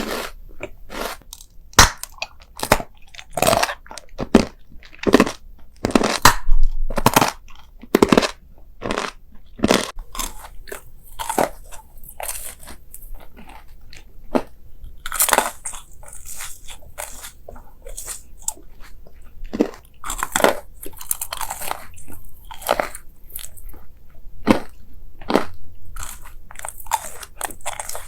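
A person biting and chewing crunchy food close to the microphone: an irregular run of loud crunches, one after another, with no pause.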